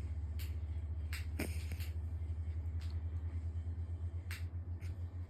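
A Tosa–pit bull mix dog snoring: a low, steady rattling rumble, with a few faint clicks over it.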